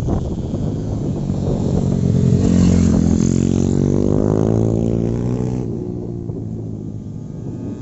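Motorcycle engine accelerating on a kart track, its pitch climbing steadily for about three seconds as it passes close, then dropping away and fading.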